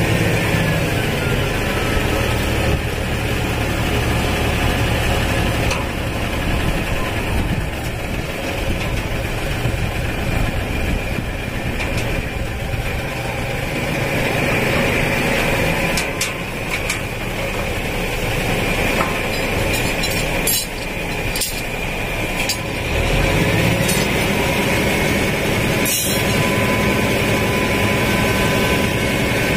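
Kubota M8540 tractor's diesel engine running steadily, its revs rising about two-thirds of the way through. A few light knocks come in the second half.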